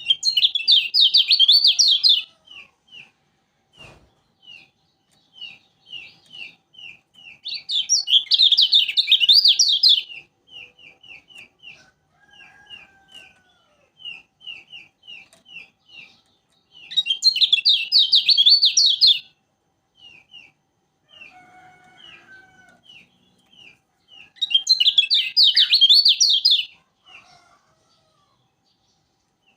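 Kecial kuning songbird singing: four loud bursts of fast, high warbling song, each about two seconds long and spaced several seconds apart, with a steady run of short repeated chirps between them.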